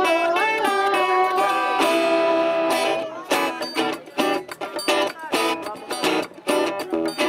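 Live music: held melodic notes for about three seconds, then rhythmic strummed guitar chords with short gaps between the strokes.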